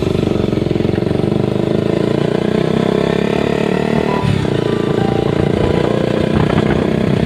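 Motorcycle engine running steadily while riding, with a brief dip in the engine note about four seconds in.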